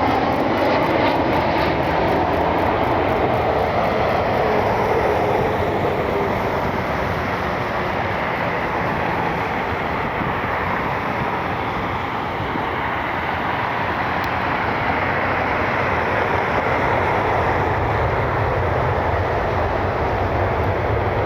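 Jet airliner engines running, a steady loud noise with a tone that slowly falls in pitch over the first several seconds.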